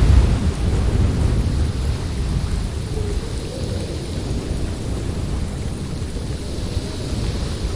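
Snowstorm wind blowing in heavy gusts, a deep rushing noise that eases after a strong gust at the start, with a faint wavering howl in the middle.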